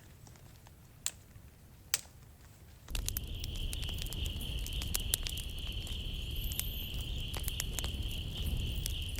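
Campfire crackling in soft rain, with scattered sharp pops and a steady high-pitched whine. For the first three seconds only a faint hush with two pops is heard, then the crackle and patter come in much louder.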